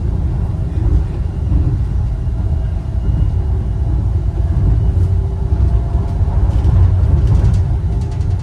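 Wuppertal Schwebebahn suspension railway car running, a steady low rumble with a faint steady whine above it and a few light clicks near the end.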